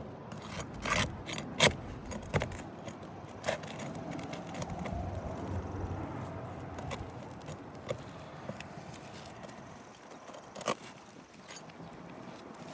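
Metal roof snake tool prying and scraping under asphalt shingles, with scattered sharp clicks and knocks, the loudest about a second and a half in, and a stretch of scraping in the middle.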